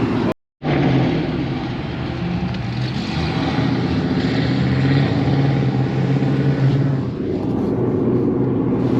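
A car engine running with a steady low drone. The sound drops out completely for a moment about a third of a second in, then resumes.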